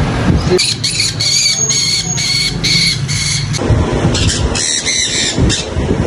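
Birds giving a rapid series of shrill, squealing calls, a few a second, from about half a second in until near the end.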